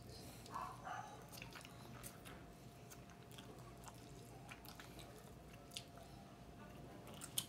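Faint close-up chewing and biting of grilled chicken held in the fingers, with small wet mouth clicks scattered throughout.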